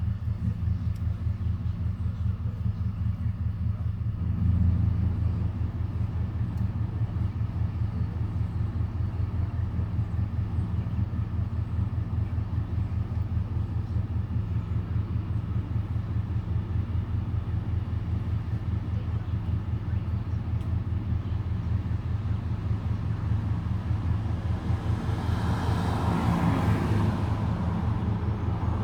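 Steady low engine rumble, like a vehicle running nearby, with something passing that swells and fades over about three seconds near the end.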